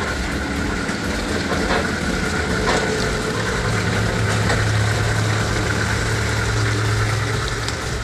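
Vehicle engine idling steadily, with a low hum that swells about halfway through and fades near the end.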